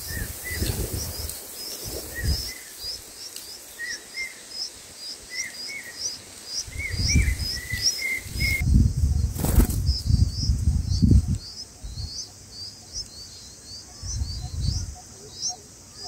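Bulbul nestlings begging with a rapid run of thin, high cheeps, about three a second. Between about seven and eleven seconds in, the parent bulbul flutters and shifts among the twigs at the nest, making low thuds and rustling.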